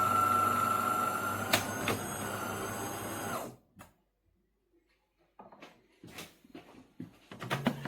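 De'Longhi Dinamica Plus bean-to-cup coffee machine's motor whining steadily while it prepares a drink, with a click about a second and a half in, stopping abruptly about three and a half seconds in. Light clicks and knocks follow near the end.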